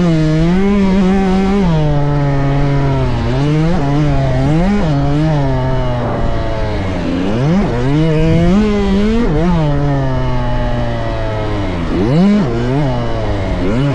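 Dirt bike engine running on a motocross track, its pitch rising and falling repeatedly as the throttle opens and closes through gear changes, with sharp revs near the middle and about twelve seconds in.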